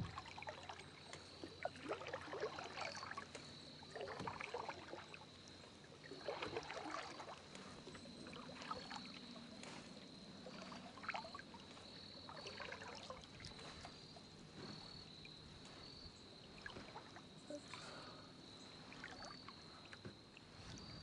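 Kayak paddle strokes in calm river water: splashes and drips from the blades, irregular, roughly every two seconds, as the boat is turned around.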